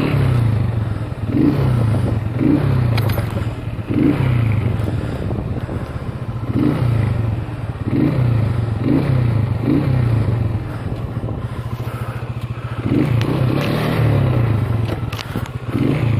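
Small motorcycle's engine running under way, its note rising and falling every second or two with the throttle.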